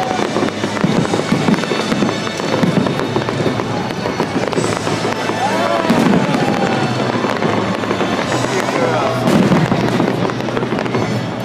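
Fireworks display: many shells bursting one after another in a dense, continuous crackling and banging, with no break.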